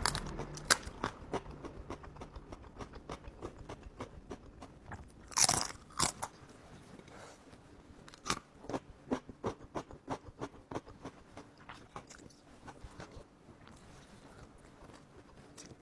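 A person chewing and biting food close to the microphone: a run of small wet mouth clicks, with a louder burst about five and a half seconds in and another just after, the clicks growing sparser toward the end.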